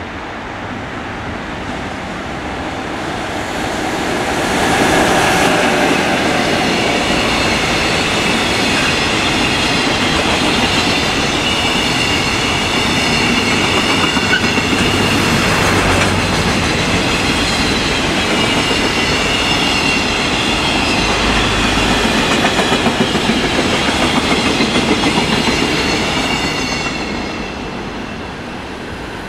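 A JR Freight EF66 electric locomotive passes at speed, followed by a long train of container wagons rumbling by, with a faint high-pitched ringing from the running gear. The sound builds over the first few seconds as the locomotive draws level. A regular clatter of wheels over rail joints comes near the end, and the noise falls away as the last wagon passes.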